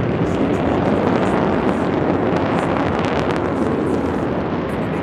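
Jet noise from Blue Angels F/A-18 Super Hornets flying a display pass: a loud, steady rushing sound with a few crackles about three seconds in, easing slightly near the end.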